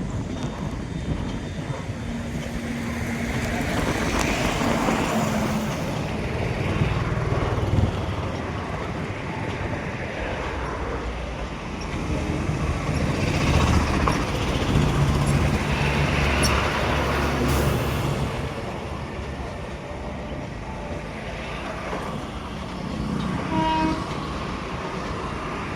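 Road traffic running past: engines and tyre noise rising to a peak about half way through, with a short horn toot near the end.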